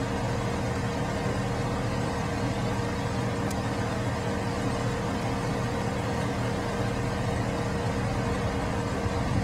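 Car engine running steadily: a low hum with a few steady tones under a broad, even noise, with one faint click about three and a half seconds in.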